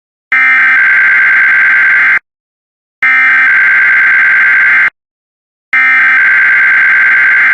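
Emergency Alert System SAME header: three loud bursts of warbling digital data tones, each about two seconds long with short silent gaps between them. They encode a required weekly test.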